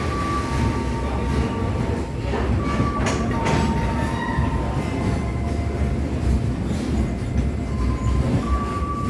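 Freight train's wagons rolling past with a steady rumble, a thin high ringing from the wheels coming and going over it, and a few sharp clicks about three seconds in.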